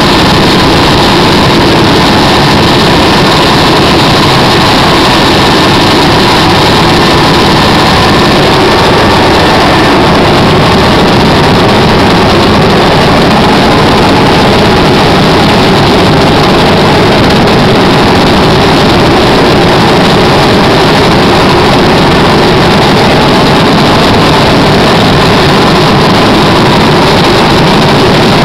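Military helicopter in flight, its engine and rotor noise loud and steady without a break.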